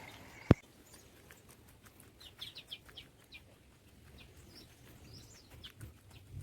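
A single sharp click about half a second in, then faint, short, high bird chirps in quick clusters, a couple of seconds in and again near the end.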